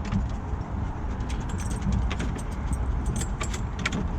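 Light metallic jingling and clinking, scattered irregularly, over a steady low rumble.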